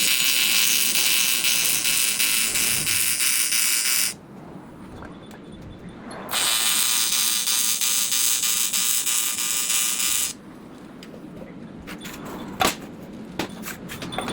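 AC TIG welding arc on aluminium intercooler pipe, buzzing steadily in two welds of about four seconds each with a short pause between. A few sharp clicks follow near the end.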